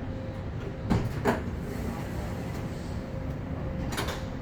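Doha Metro train standing at an underground platform: a steady low hum with a faint constant tone, broken by two sharp knocks about a second in and another near the end.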